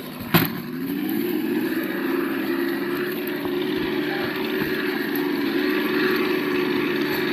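Simulated engine sound from an RC crawler's sound module, dropping in pitch, then rising a little and holding steady. A sharp click sounds about a third of a second in, the loudest moment.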